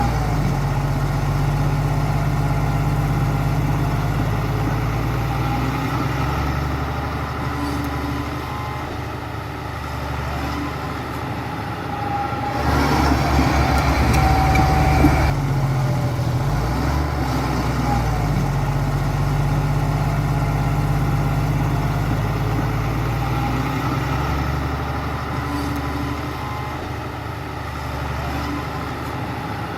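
Diesel engine of heavy earthmoving machinery running steadily and shifting in pitch as it works. It gets louder for a few seconds near the middle, with a fast low beat.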